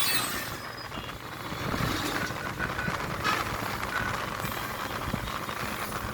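Road traffic noise: a steady rumble of passing vehicles, with faint high tones from horns or beeps in the mix.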